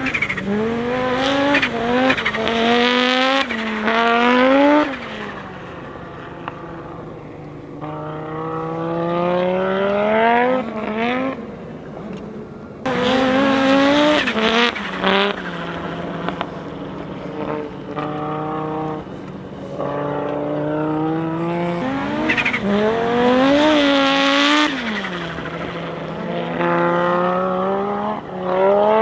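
Audi Sport Quattro S1 E2 Group B rally car's turbocharged inline five-cylinder engine revving hard under acceleration. Its pitch climbs through each gear and falls back at the shifts and lifts, over and over.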